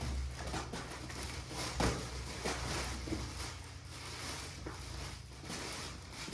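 Rustling and irregular light knocks of baby items and packaging being handled during an unboxing, over a low steady hum.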